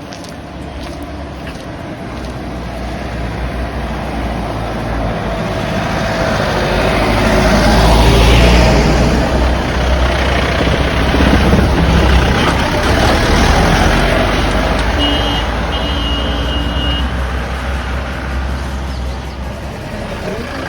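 A heavy road vehicle approaches, passes close by and draws away, with a deep engine rumble that swells to its loudest about eight seconds in and then slowly fades. A short double beep sounds about fifteen seconds in.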